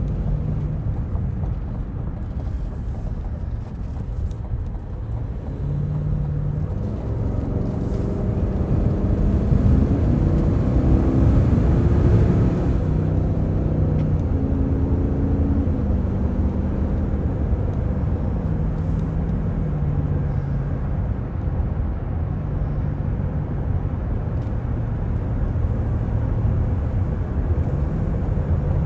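Cadillac Escalade engine pulling hard under full-throttle acceleration. Its note climbs and drops back at each automatic upshift and is loudest about ten to twelve seconds in, then eases to a steadier drone over tyre and road noise.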